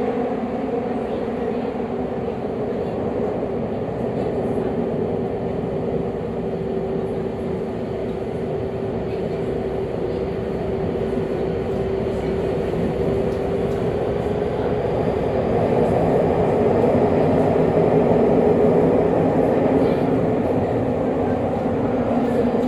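Tobu 50000-series electric train running through a subway tunnel at speed: steady rumble of wheels on rail with a humming tone that fades away about two thirds of the way in, after which the running noise grows louder for several seconds.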